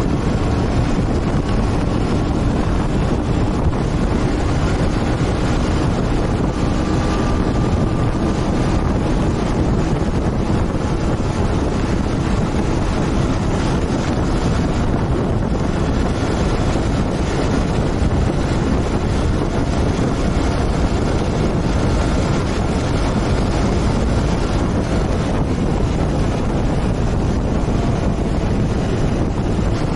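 Motorcycle riding at a steady cruising speed, its engine a constant drone under heavy wind rush on the microphone.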